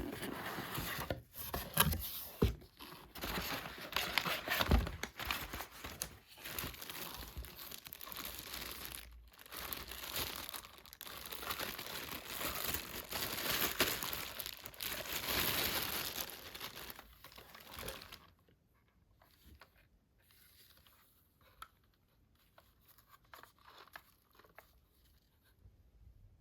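Crinkling and crackling of packaging being handled, uneven with short pauses, stopping about two-thirds of the way through; after that only faint scattered small sounds.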